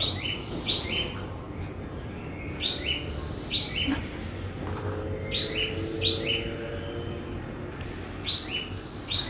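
A small bird chirping: short, high, falling chirps, mostly in quick pairs, repeating every second or two.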